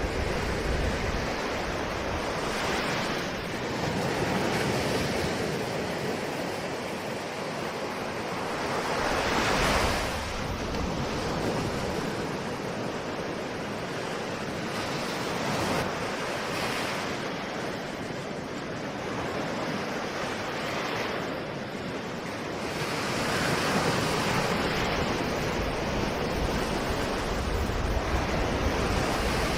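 Ocean waves breaking and washing on the shore, a steady surf with swells every few seconds, the biggest about ten seconds in. Some low wind noise on the microphone.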